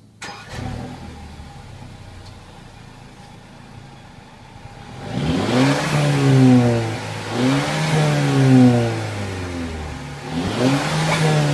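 Mercedes CLA 250's turbocharged four-cylinder engine idling quietly, heard from inside the cabin, then revved three times in quick succession about five seconds in, each rev rising and falling back, with the Sport mode off.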